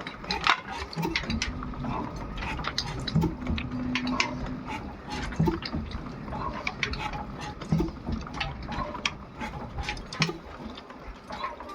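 Ruston Hornsby diesel engine running slowly: a low thud about every two seconds amid constant mechanical clicking and clatter.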